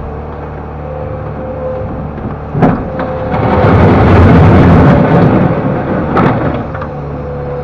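LONKING CDM307 skid steer loader's engine running steadily, then rising to a loud surge for about three seconds in the middle, as under load. A sharp clank comes just before the surge and another as it eases back.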